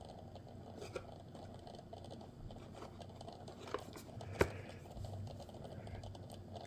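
Faint handling of a diecast model truck: a few small clicks and taps over a quiet room hum, the sharpest about four seconds in.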